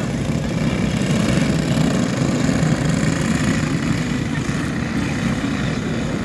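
Several junior speedway motorcycle engines running together at a steady pace, with no sharp revving.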